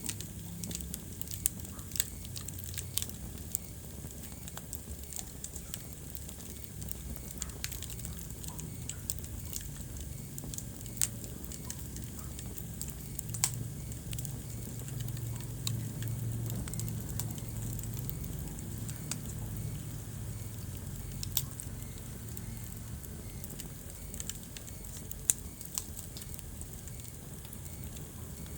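Wood fire burning in a fireplace: a steady low sound of flames with frequent sharp crackles and pops, and a handful of louder snaps.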